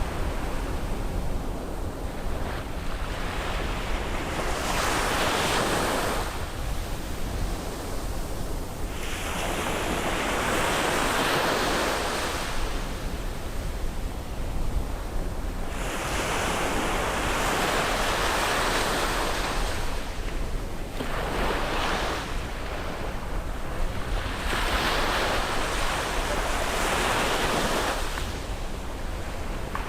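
Sea waves breaking and washing up the beach, the surf hiss swelling and fading every few seconds.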